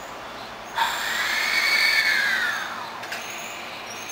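Hankyu 1000 series electric train moving slowly alongside the platform. About a second in, a sudden loud whine starts with hiss over it; it rises and then falls in pitch over about two seconds. A short click follows.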